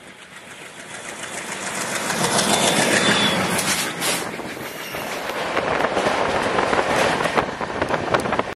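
A freight train rushing past close alongside a moving passenger train. The noise builds over the first three seconds, then turns to rapid clatter and clicks of steel wheels on the rail joints.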